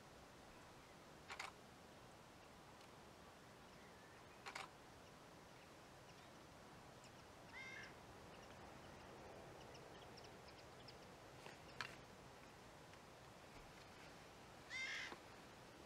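Faint field ambience with a bird calling about five times, short calls a few seconds apart; the last, near the end, is the longest and clearest.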